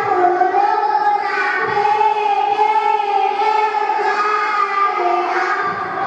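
Children's voices singing or chanting in unison, in long held notes that waver slowly in pitch.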